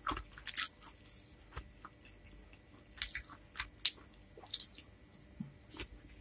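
Close-miked mouth sounds of eating instant fried noodles with soft white bread: wet chewing, lip smacks and sticky clicks coming irregularly, a few each second.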